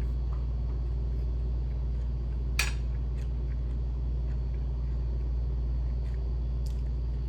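A steady low hum. One sharp click comes about two and a half seconds in, and a few faint ticks come near the end.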